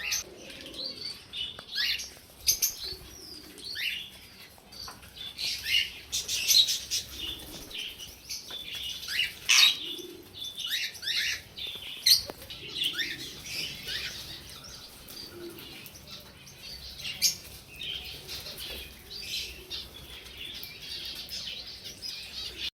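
Budgies chirping and chattering in short, quick calls that fall in pitch, with the flutter of wings flapping now and then.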